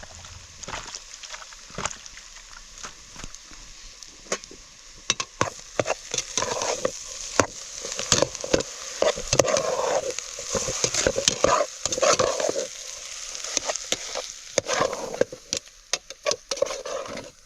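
Food sizzling in a pan while being stirred, with frequent sharp clicks and scrapes of the utensil against the pan over a steady hiss.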